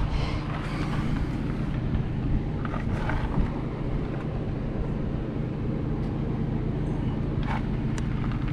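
An engine running steadily at a low hum, with a few faint knocks over it.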